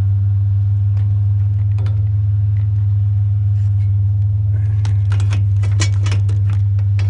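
Aluminum scrap metal clattering and rattling as it is handled, a few light clicks early and a dense run of clanks about five seconds in, over a loud, steady low hum.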